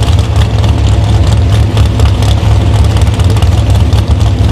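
A drag-racing car's engine running at low revs: a loud, steady, low rumble with no rise in pitch.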